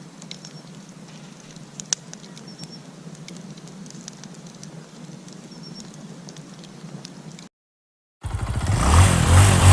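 Campfire crackling, with scattered sharp pops over a steady low hum. About eight seconds in it cuts to a brief silence, then a motorcycle engine starts running loudly.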